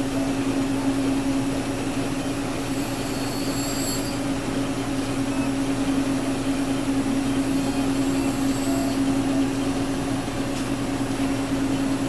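Gravograph M20 engraving machine running steadily as it engraves an anodized aluminium tag: a constant motor hum over a steady whir, with faint high-pitched whines coming and going twice.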